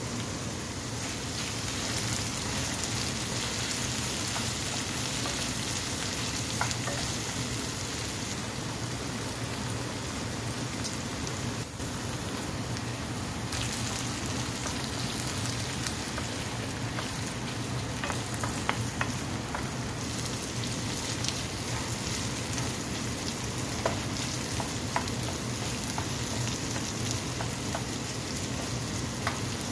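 Sliced okra and eggs sizzling steadily as they fry in a nonstick pan. A wooden spatula stirs them, making a few light clicks and scrapes.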